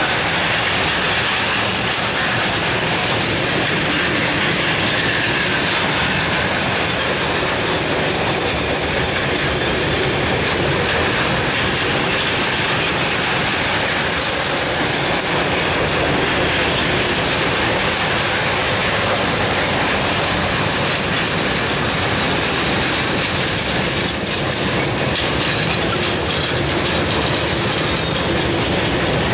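A long freight train's container flat wagons rolling past close by: a steady, loud running noise of steel wheels on the rails.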